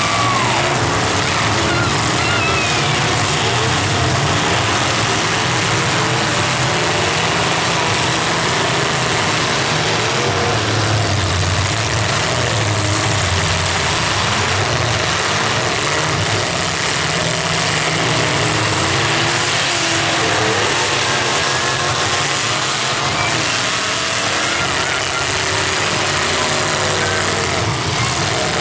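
Several full-size demolition derby cars' engines running and revving together in a loud, steady din.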